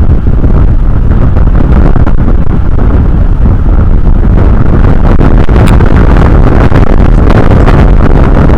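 Strong wind buffeting the eagle nest camera's outdoor microphone: a loud, continuous low rumble.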